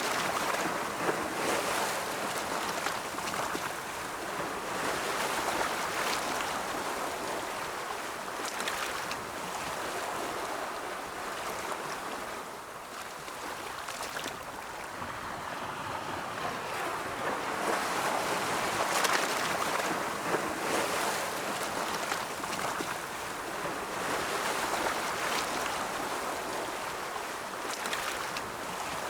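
Ocean waves rolling onto a shore: a steady rush of surf that swells and eases as each wave breaks and draws back.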